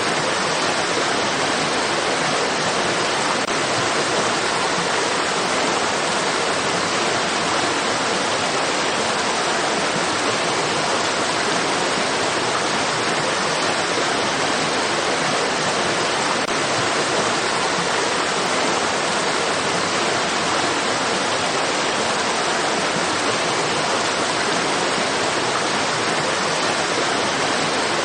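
Flowing stream water rushing in a steady, even hiss that does not change.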